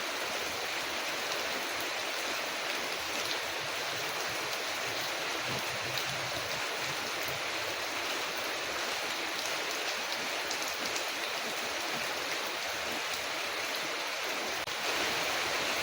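Steady rain falling on a window, an even wash of noise with faint crackles of a wood fire ticking through it. The rain grows slightly louder near the end.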